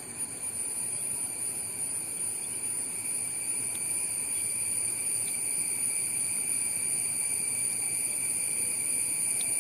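Insects droning steadily in several high-pitched tones, over a low even hiss of outdoor background noise.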